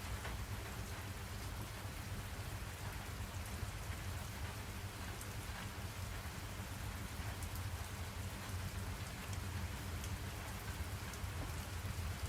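Steady rain falling, an even hiss with a strong low rumble underneath and faint scattered drop ticks.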